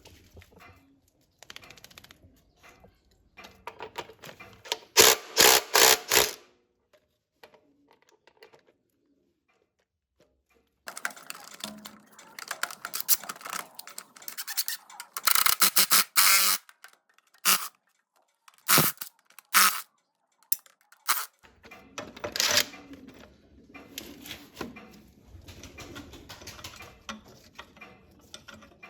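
Sharp metallic knocks and clanks of work on a tractor hydraulic pump: a quick run of about five strikes, then a gap of silence, then a longer busy cluster of knocks and a few single strikes.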